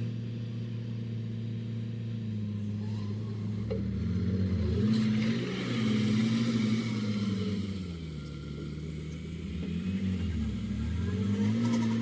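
Heavy machinery diesel engine running, revving up about four seconds in, easing off around eight seconds and revving up again near the end.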